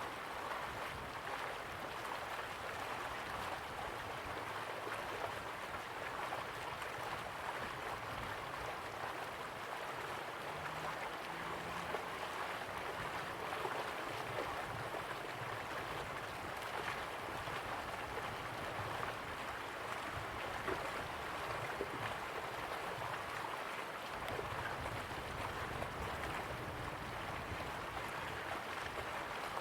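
River water flowing slowly, a steady, even wash of water noise with no break.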